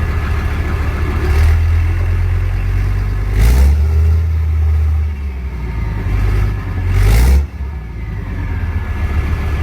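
Leopard tank's diesel engine running shortly after a cold start, idling with a few short blips of the throttle: about a second in, harder at about three and a half seconds, and again around seven seconds. The revs drop suddenly back to a steady idle.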